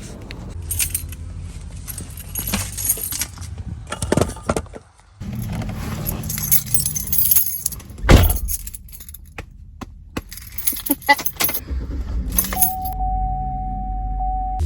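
Keys jangling amid rattling handling noises, with one heavy thump just after eight seconds in and a steady single tone for the last two seconds.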